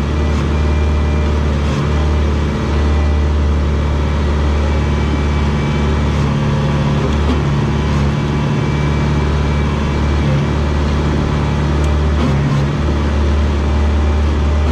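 Komatsu D21 bulldozer's diesel engine running steadily under load with a deep drone, dipping briefly a few times.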